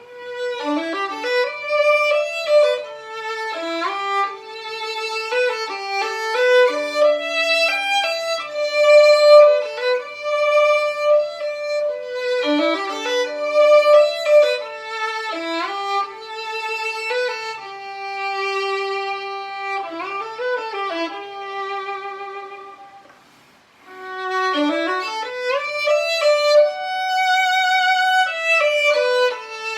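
Violin playing a slow, singing melody, sliding between notes and with vibrato on held notes. The line breaks off briefly about three-quarters of the way through, then starts again.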